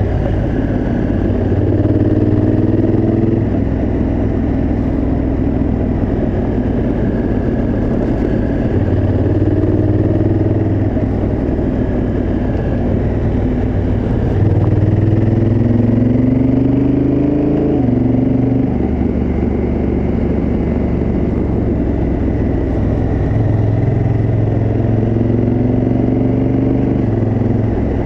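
Honda Africa Twin CRF1000L's parallel-twin engine through its stock exhaust, under way. The throttle opens about four times, the engine note climbing in pitch each time and then dropping back, most sharply about two thirds of the way in, with a steady rush of wind and road noise underneath.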